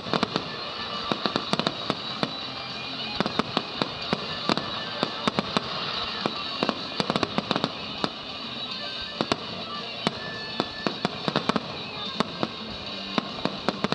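Aerial fireworks display: a dense, irregular run of sharp bangs and pops from bursting shells, many in quick succession, over steady background music.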